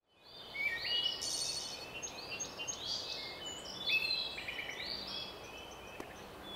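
Several birds singing and calling at once, short whistled chirps and quick rising notes, over a faint steady background hiss; it fades in over the first half second.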